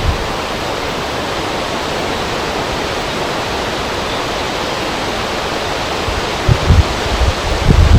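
Steady rush of wind over a river with flowing water. From about two-thirds of the way in, low gusts buffet the microphone.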